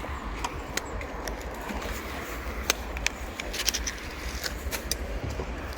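Steady low outdoor rumble with scattered small clicks and scrapes of gear being handled.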